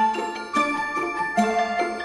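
Background music: a light tune of struck, ringing bell-like notes from a tuned mallet instrument, several notes a second.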